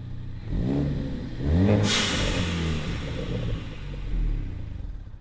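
2016 Ford Focus ST's turbocharged 2.0-litre four-cylinder, on an aftermarket exhaust, blipped several times from idle, the revs rising and falling quickly. A brief sharp hiss sounds just before two seconds in, fitting the car's blow-off valve venting as the throttle closes.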